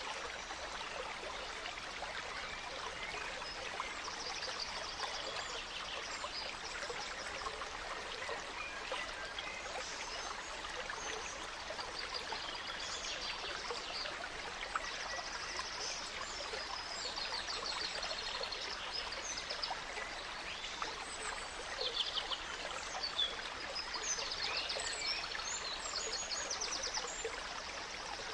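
A gentle stream running steadily, with small songbirds chirping and trilling over it in short phrases throughout.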